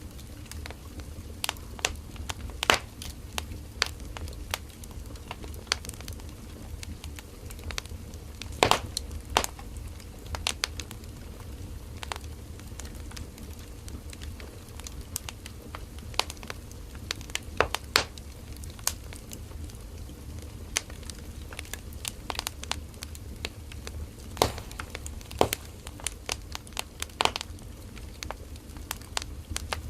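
Wood fire crackling: irregular sharp pops and snaps of burning firewood, a few louder ones scattered through, over a steady low rumble of the flames.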